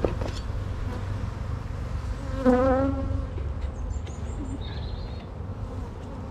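Honeybees buzzing around an open beehive. One bee flies close past the microphone about two and a half seconds in, giving a loud buzz that wavers in pitch.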